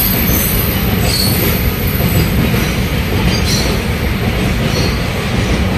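A train running on the tracks: a steady, loud rumble with a thin high-pitched squeal of wheels on rail.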